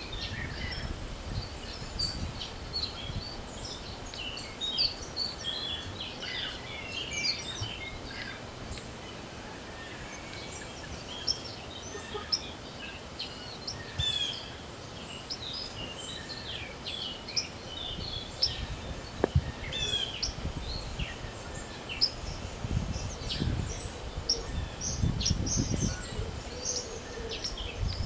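Many small songbirds chirping and singing at once, in a busy spring dawn-style chorus. Gusts of wind rumble on the microphone at the start and again through the last few seconds.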